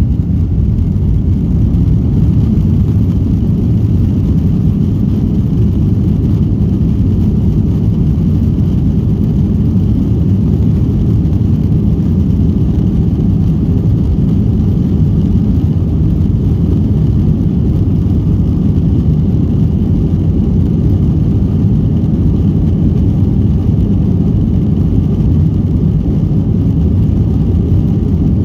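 Jet aircraft engines at takeoff power: a loud, steady low roar with a faint high whine above it, holding without change.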